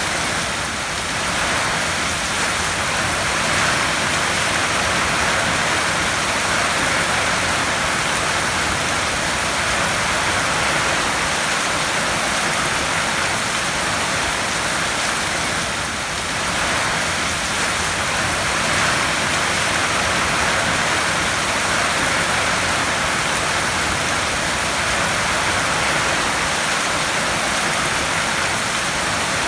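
Heavy rain falling steadily on a tin roof: a dense, even hiss of drops with no separate hits standing out, dipping slightly in loudness now and then.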